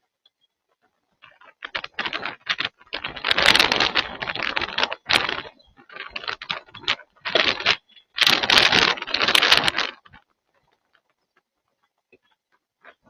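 Rapid, uneven clattering of many small hard knocks, in loud bursts for about eight seconds before stopping.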